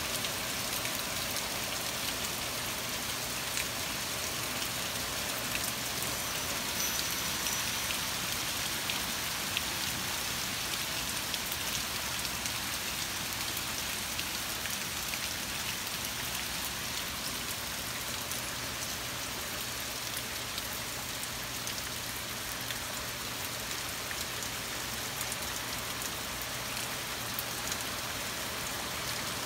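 Torrential rain falling and pattering on surfaces: a steady, even hiss dense with drop ticks, with a faint steady low hum underneath.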